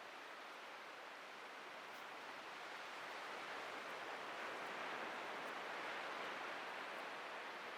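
Atlantic ocean surf washing on a beach: a steady hiss of breaking waves that swells a little in the middle.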